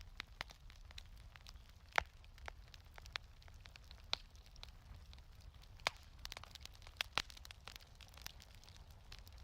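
Fireplace wood fire crackling, with irregular sharp pops of varying strength, the loudest about two seconds in and again near six and seven seconds, over a low steady rumble.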